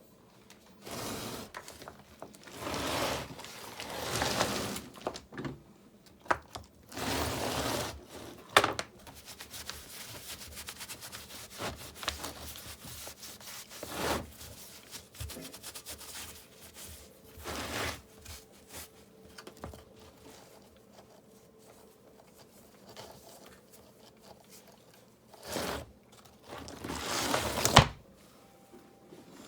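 Bursts of scraping and rubbing, with a few sharp knocks and a run of small ticks in the middle: mortar being worked and river rocks being set in it.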